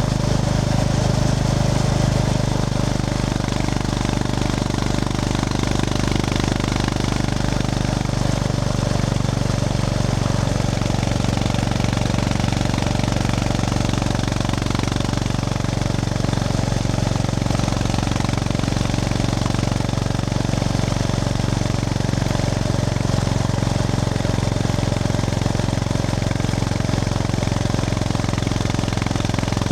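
Honda GB350S's air-cooled single-cylinder engine thumping steadily under way at a fairly constant pace, with wind and road noise over it.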